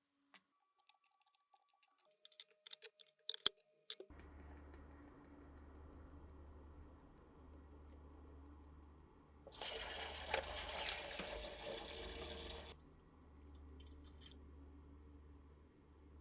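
Light clicks and ticks, then a steady low hum that starts about four seconds in. Water runs from a tap for about three seconds in the middle.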